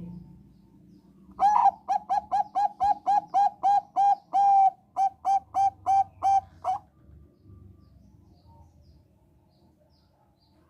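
Zebra dove (Thai-bred 'bangkok' perkutut) cooing a rapid run of about twenty short notes, about four a second, with one longer held note midway, stopping about seven seconds in.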